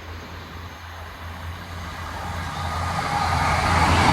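Train approaching along the line, its rumble and rail noise growing steadily louder over the last couple of seconds.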